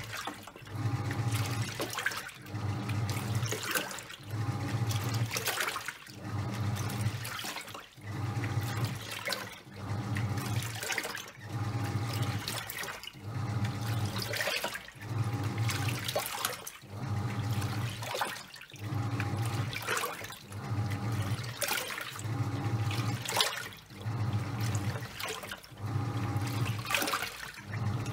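Top-loading washing machine in its wash cycle: the pulsator motor hums in strokes about once a second, reversing back and forth, with water and towels churning and sloshing in the drum.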